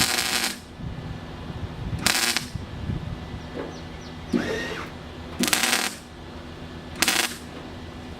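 A welder laying short tack welds on car body sheet metal: four crackling bursts of about half a second each, with a brief metallic ring between the second and third.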